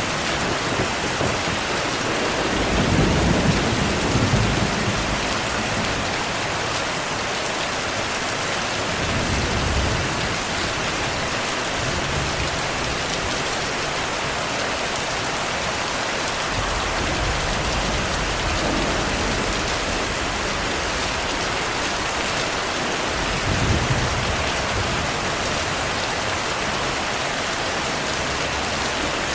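Steady heavy rainfall with low thunder rumbling at intervals, the loudest roll about three seconds in and another near the end.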